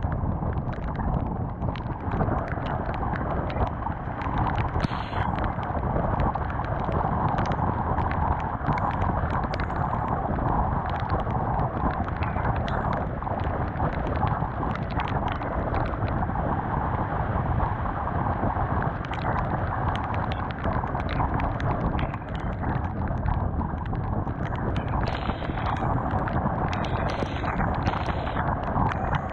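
Honda CBR 250R motorcycle riding at speed in the rain: steady engine and road noise under a heavy wind rush on the action-camera microphone, with many small ticks throughout.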